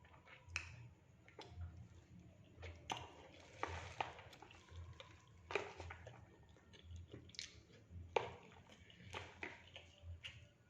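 Close-up eating sounds of a person chewing fried rice and fried fish: sharp mouth clicks at irregular intervals over a soft, regular chewing pulse.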